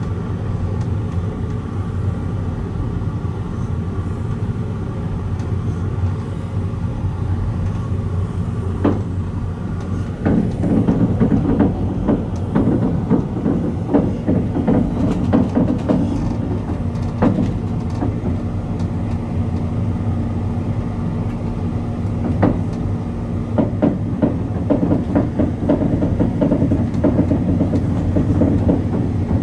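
Inside a passenger railcar on the move: a steady rumble of the train rolling on the rails. From about ten seconds in it grows louder, with frequent clicks and rattles of the wheels over the track.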